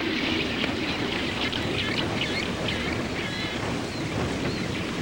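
Steady wind and surf noise, with a few faint, short, high calls from seabirds a couple of seconds in.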